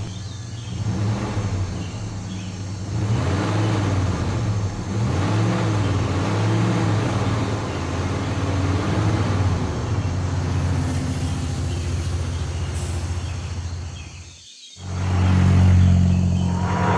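Cartoon vehicle engine sound effect: a steady low engine drone with some rising and falling revs. It cuts out briefly near the end and comes back louder.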